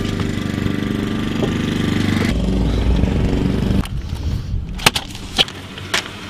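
Car engine running steadily, heard from inside the cabin. About four seconds in the sound drops away abruptly, and three sharp clicks follow.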